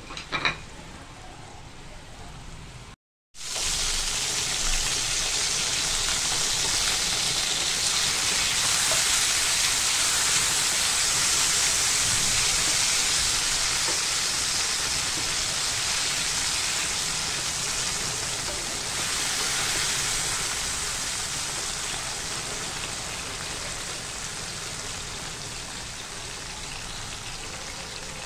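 Galouti kababs sizzling as they shallow-fry in hot oil in a pan: a steady, loud hiss that starts after a brief gap a few seconds in and slowly eases toward the end. Two sharp clicks at the very start.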